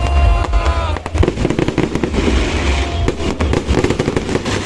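Fireworks going off in a rapid, dense barrage of bangs and crackles over a continuous low rumble.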